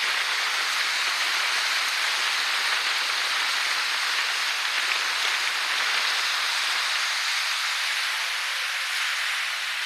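Steady rushing hiss of a winter storm on the Lake Michigan shore: strong wind and rough lake water, without a break.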